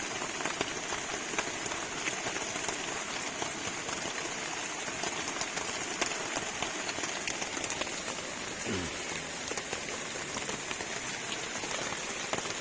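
Heavy rain falling steadily, with many individual drops tapping close by.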